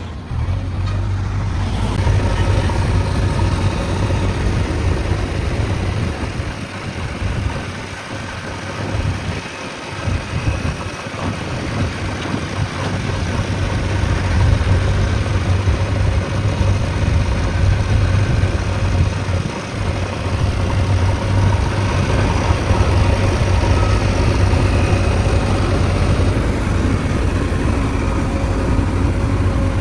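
JCB 3DX Extra backhoe loader's diesel engine running steadily under work. It eases off a little between about 6 and 11 seconds in, then picks back up.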